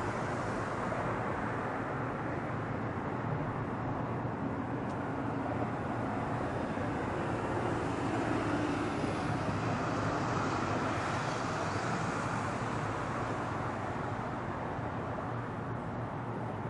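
Airbus A340 airliner's four jet engines at takeoff power: a steady, broad roar that swells slightly midway and eases a little near the end.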